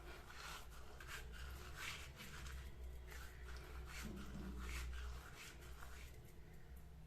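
Soft rubbing and scraping strokes, a few each second and uneven, over a steady low hum.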